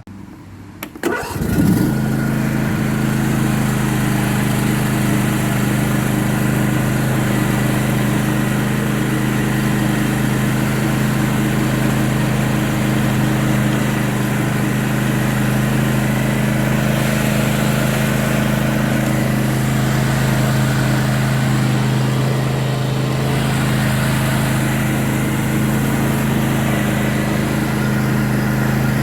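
John Deere E180 lawn tractor engine starting about a second in, then running at a steady speed.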